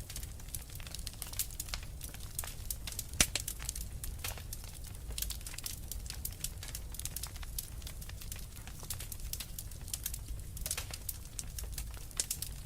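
Wood fire crackling with many small, irregular pops and snaps and one loud pop about three seconds in, over a low steady rumble of blizzard wind.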